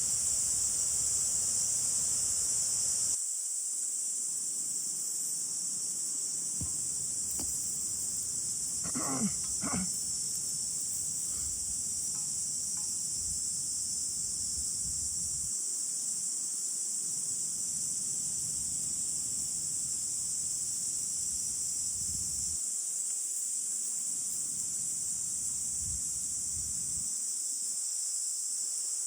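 Insects singing in a steady, high-pitched chorus. A low rumble under it stops suddenly about three seconds in, and two short pitched calls come about nine seconds in.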